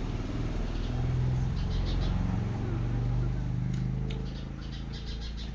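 A motor vehicle's engine running steadily, growing fainter toward the end, with short bird chirps over it.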